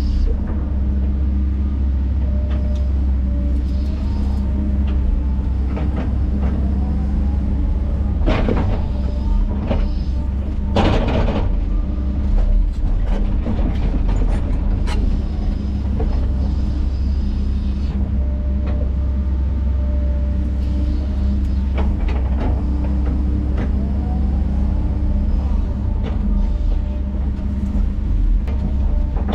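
Bulldozer diesel engine running steadily under load as it works the dirt, with faint squeals rising and falling in pitch. Two loud clanks come about 8 and 11 seconds in.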